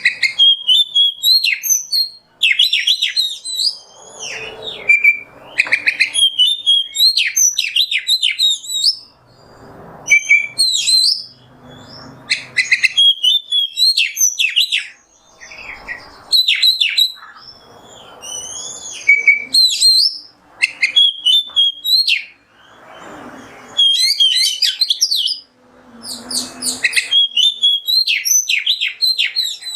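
Oriental magpie-robin (kacer) singing: loud phrases of rapid whistles, chirps and trills, each a few seconds long, separated by short pauses.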